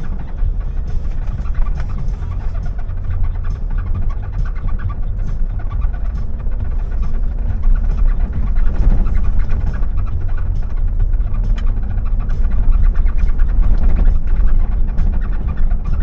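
A car driving: a steady low rumble of engine and tyres on the road, with frequent small rattles and knocks, growing slightly louder in the second half.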